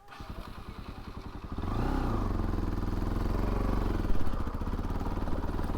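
Bajaj Pulsar NS200's single-cylinder engine ticking over with quick, even pulses, then about a second and a half in it gets louder with a short rise in pitch as the bike pulls away, running steadily under throttle.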